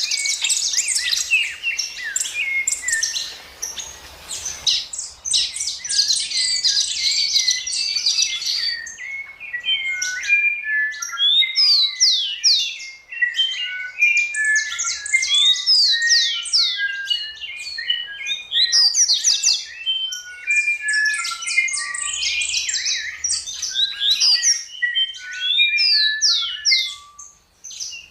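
Birds chirping and singing: a dense run of quick, overlapping chirps and short descending whistled notes, with a brief lull near the end.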